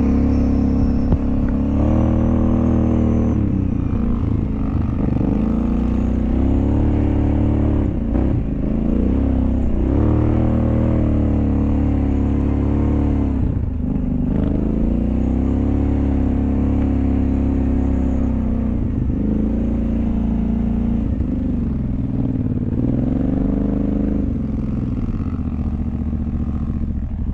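An off-road vehicle's engine running continuously while riding, its pitch rising and falling every couple of seconds as the throttle opens and closes.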